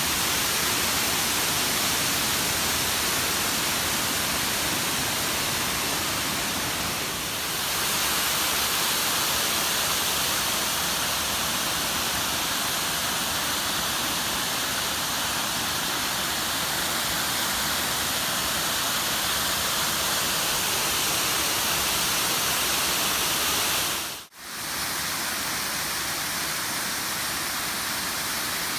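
Waterfall: a steady, loud rush of falling water. About three-quarters of the way through it cuts out for a split second and then resumes.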